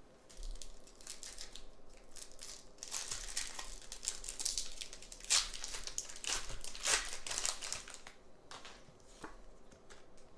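Foil Pokémon booster pack wrapper crinkling and being torn open, in an irregular run of rustling handling sounds.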